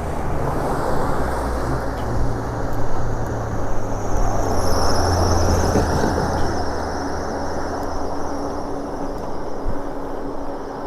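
Wind and road noise from riding an e-bike along a street, with a vehicle passing, its low hum swelling about four seconds in and fading a few seconds later.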